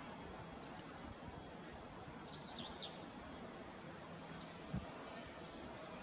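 Birds calling: short, high, downward-sweeping chirps, with a quick run of several about two and a half seconds in and single chirps before and after, over a steady outdoor background hiss. A soft low bump sounds shortly before the end.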